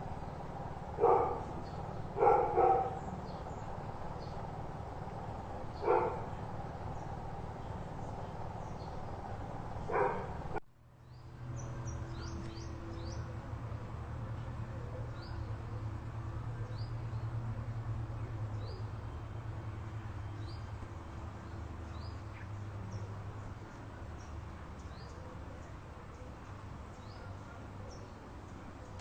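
A dog barks five times in the first ten seconds, in short separate barks. After a sudden cut, a steady low drone swells a little and then fades, while a bird gives short, high, falling chirps about once a second.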